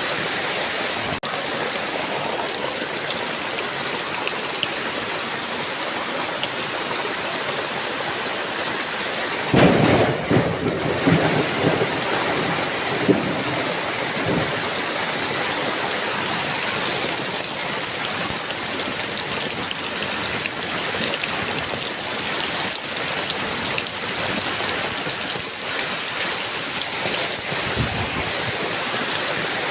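Heavy rain falling steadily. About ten seconds in, a sudden clap of thunder crackles and rumbles for a few seconds before sinking back under the rain.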